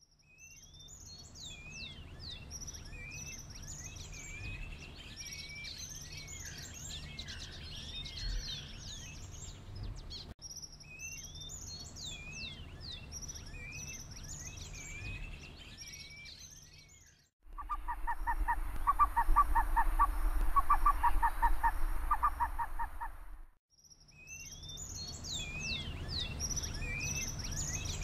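Small birds chirping and whistling in quick high notes over a low background rumble. About 17 seconds in, the chirping breaks off for a louder, rapid pulsing sound lasting about six seconds, and then the chirping resumes.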